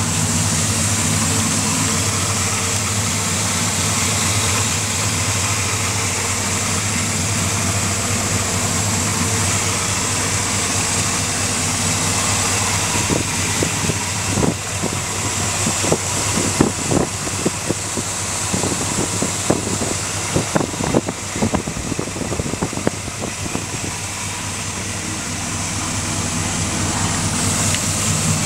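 Freshly rebuilt 350 small-block V8 in a 1981 GMC pickup idling steadily. Partway through comes a run of irregular sharp clicks.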